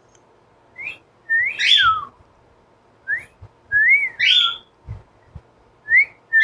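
Cockatiel whistling: three short phrases, each a quick rising chirp followed by a longer whistle that rises and then sweeps down, with a harsh, raspy edge on top. A few soft low thumps in between.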